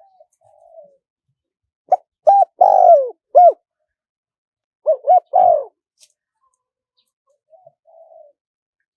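Spotted dove cooing: two loud phrases, each a couple of short clipped coos followed by a longer coo that falls in pitch, with soft, faint coos before and after them.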